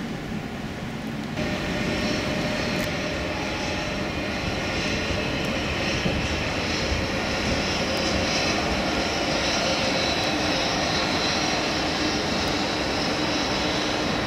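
Siemens ES 64 U2 'Taurus' electric locomotive hauling a passenger train past on the station track: steady rolling noise of wheels on rail with a high whine, getting louder about a second and a half in.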